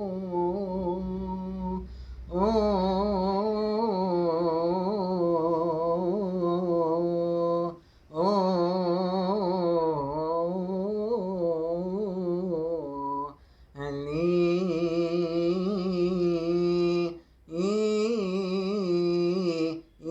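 A solo male chanter humming a wordless, richly ornamented liturgical melody in long phrases, with brief breaths between them.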